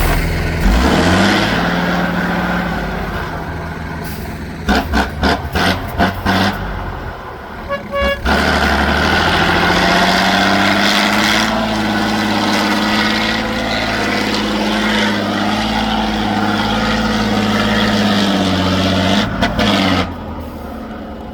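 Heavy off-road trial truck's engine running under load, its note rising in the first second and then held steady for a long stretch. A quick run of sharp knocks comes about five seconds in.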